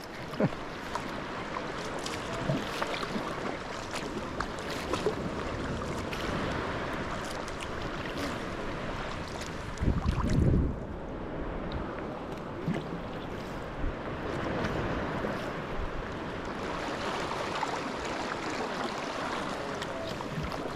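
Sea kayak paddling on open water: a steady wash of water with small splashes and drips from the paddle strokes and waves lapping at the hull. A brief louder low rush comes about halfway through.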